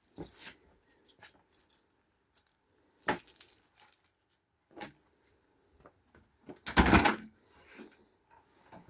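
Scattered clicks and a jingling like keys being handled, with a louder clatter about three seconds in and a louder rattling noise about seven seconds in. No engine is running.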